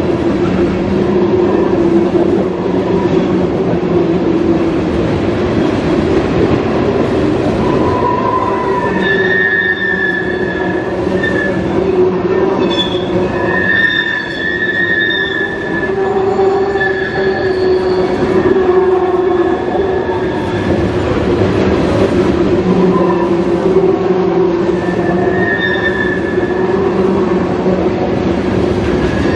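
Freight train of tank cars rolling past, a steady rumble of wheels on rail. High, thin wheel squeal comes and goes through the middle and again near the end.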